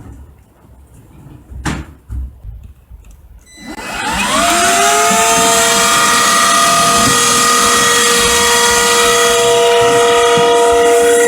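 A few clicks and knocks of handling. Then, about three and a half seconds in, a cordless vacuum cleaner's motor spins up with a rising whine and settles into a steady, loud, high whine with a rushing hiss.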